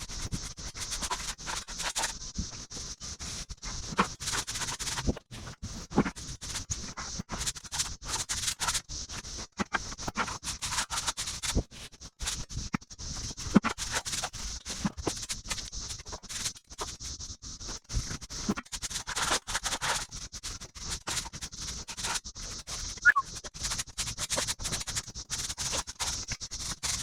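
Continuous irregular scratching and scraping, made up of many short rough strokes with a steady hiss above them.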